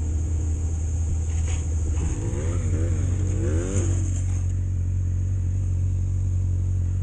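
Onboard sound of a Honda CB600F Hornet's inline-four engine running steadily with wind rush, with a brief wavering up-and-down tone between about two and four seconds in.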